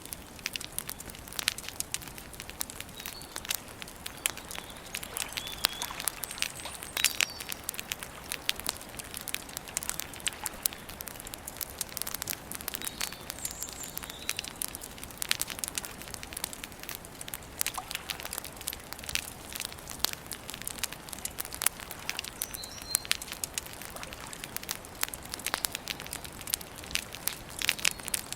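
Campfire crackling, with many irregular sharp pops and snaps. Faint, brief bird chirps come through now and then.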